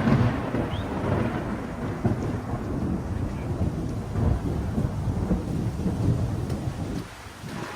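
Thunder rumbling low and rolling over steady heavy rain, dying away near the end.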